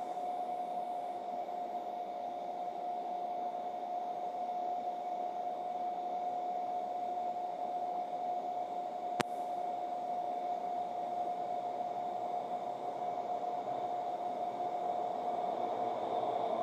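Steady electronic tone over a hiss of line noise, with a single sharp click about nine seconds in.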